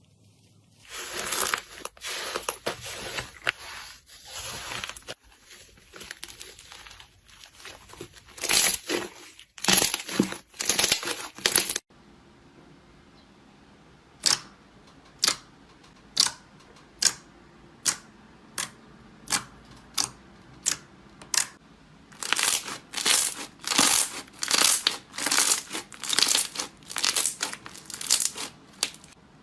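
Crunchy material crushed and crumpled close to the microphone: a dense crinkling stretch, then a run of single sharp cracks a little under a second apart, then from about two thirds of the way in a quicker series of crunches, about two a second.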